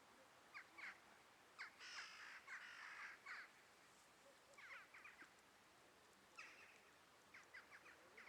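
Faint bird calls: a series of short, harsh calls, some in quick runs of two or three.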